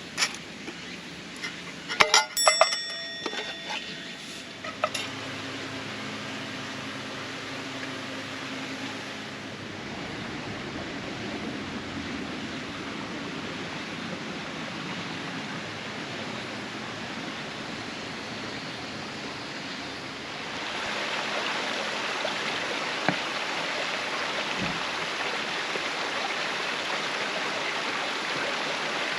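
Metal cookware clinking and ringing a few times in the first few seconds, then a steady rushing hiss that grows louder about two-thirds of the way through.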